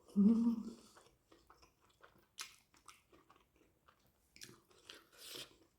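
Close-miked chewing of chowmein noodles and egg curry: a short hummed "mm" at the start, then soft wet smacks and clicks of the mouth.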